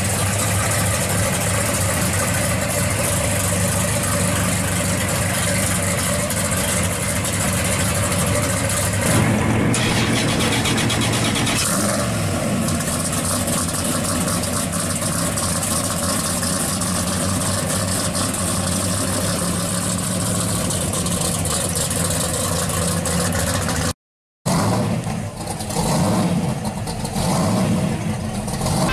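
Orange pro-street 1970 Plymouth 'Cuda's V8 running loudly at idle, then revving about nine seconds in and driving off. After a short cut near the end, a supercharged V8 in a yellow 1970 Camaro Z/28 blipping its throttle in quick surges.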